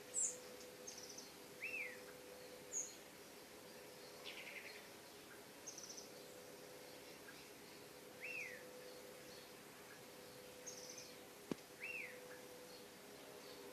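Several birds calling: a short arching whistle repeated every few seconds, with quick high chirping trills and sharp high chips in between, over a faint steady hum. A single click sounds about eleven seconds in.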